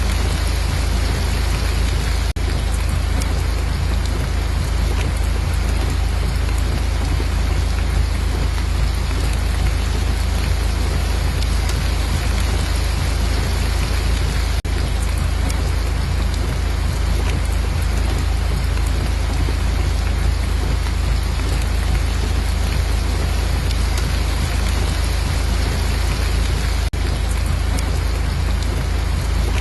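Steady, heavy rain noise with a deep low rumble underneath, unchanging throughout apart from three very brief dips about every twelve seconds.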